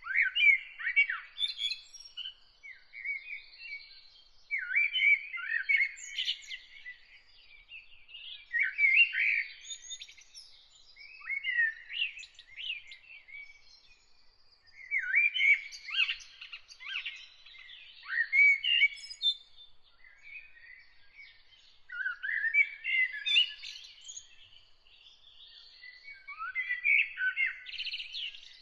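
Songbirds singing: a run of chirping, warbled phrases, each a second or two long, with short pauses between them.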